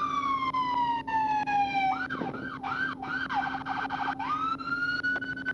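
Police patrol car's electronic siren changing modes: a slow wail sliding down in pitch for about two seconds, then a few quick rising yelps and a fast warble, then climbing back into a steady high wail. A steady low hum runs underneath.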